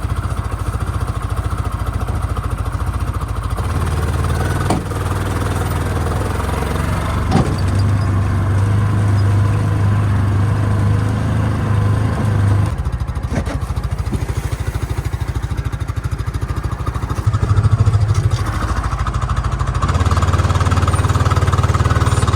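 Coleman Outfitter 550 UTV engine running as it drives, its level rising and falling as it speeds up and eases off. A few short clattering knocks come over it.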